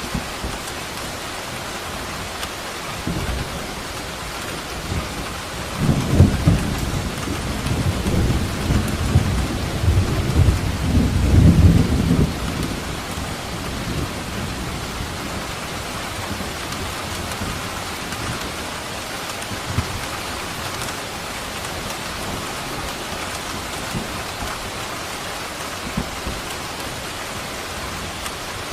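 Steady rain with a rumble of thunder that builds about three seconds in, is loudest between about six and twelve seconds, then fades.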